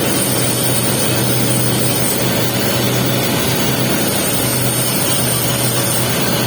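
Welding arc crackling steadily while the capping pass is laid on a pipe joint, over a steady low hum.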